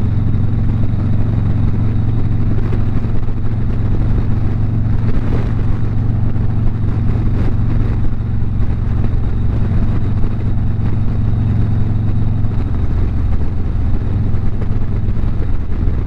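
Harley-Davidson V-twin motorcycle engine running at a steady cruise, with wind rushing past the rider. The engine note drops a little about three quarters of the way through.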